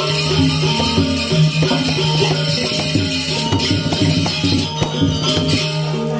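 Balinese gamelan playing: ringing metallophone tones held over a dense, rattling high layer of percussion.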